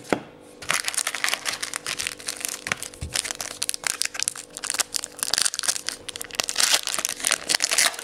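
Foil wrapper of a trading card pack crinkling and crackling as it is handled and torn open, with many sharp little crackles.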